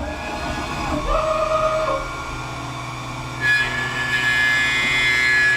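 CNC lathe machine running: a short whining tone from an axis move, then a steady high whine with hiss from about three and a half seconds in.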